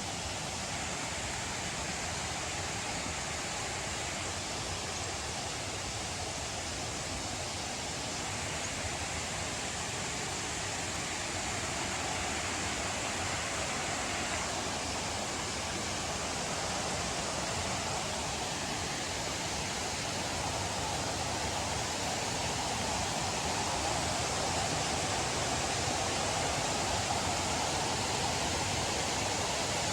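Waterfall rushing, a steady hiss of falling water that slowly grows a little louder.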